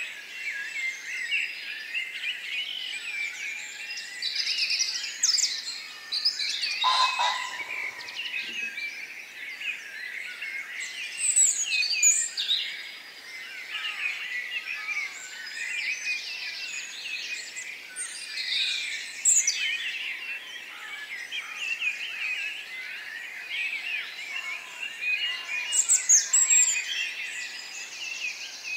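Dense chorus of many small birds chirping and trilling together without a break, with louder, sharper high calls standing out now and then.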